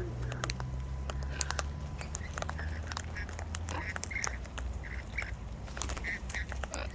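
Birds making short, repeated soft calls, with scattered sharp clicks among them.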